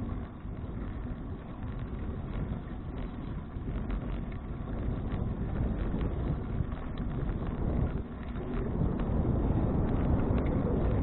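Wind buffeting an action camera's microphone while cycling, mixed with the bicycle's tyre and road rumble and scattered small ticks. The rushing grows louder toward the end.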